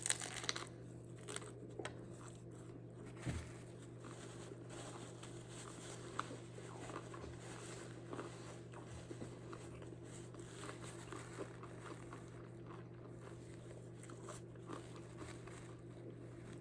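Crunching bites into a hard-shell taco in the first second, a few smaller crunches over the next few seconds, then faint chewing over a steady low hum.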